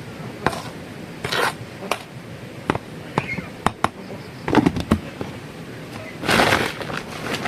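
Irregular sharp knocks and clinks with a few short rustling bursts, the longest a little past the middle.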